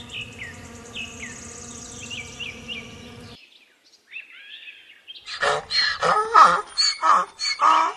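Wasp buzzing in a steady hum, with small birds chirping over it, cut off suddenly a little over three seconds in. In the second half, louder, rapid chirping calls take over.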